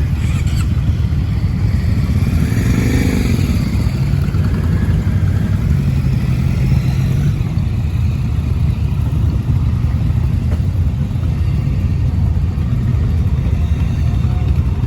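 A motor vehicle, likely a motorcycle, passes about two to four seconds in, swelling and then fading, over a steady low rumble.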